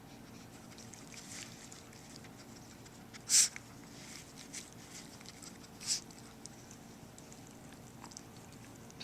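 A small dog shifting about inside a soft fabric pet carrier: two brief rustling scuffs about two and a half seconds apart, with a few faint ticks between, over quiet room tone.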